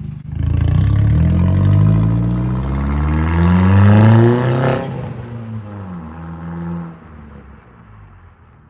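Turbocharged Audi A4 with the muffler deleted, accelerating hard: the engine note rises for about four and a half seconds, drops with a gear change near the middle, pulls on at a lower note, then dies down in the last couple of seconds.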